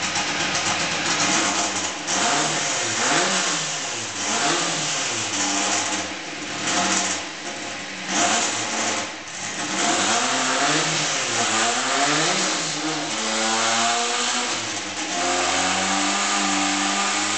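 Fully built VW drag car engine on a dyno, revved again and again in quick up-and-down blips, then held at a steady higher speed near the end.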